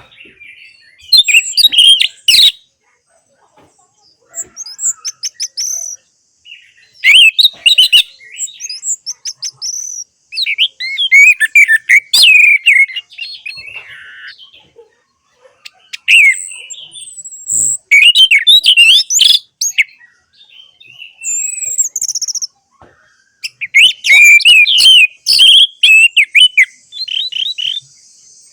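Orange-headed thrush singing: rapid, varied, warbling phrases of one to three seconds each, broken by short pauses.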